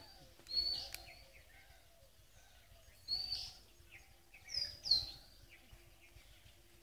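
A bird chirping in the background: four short high chirps spread over a few seconds, the last two close together.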